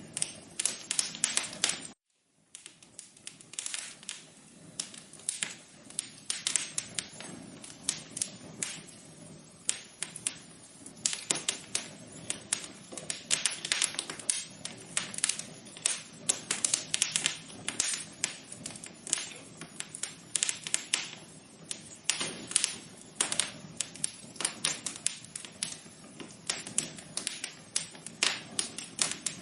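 Fire crackling in a fireplace: a steady stream of irregular sharp pops and snaps over a low hiss, cut by a brief drop-out to silence about two seconds in.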